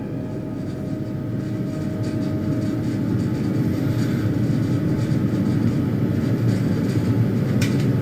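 A steady low rumble with a faint steady hum, and one sharp click near the end.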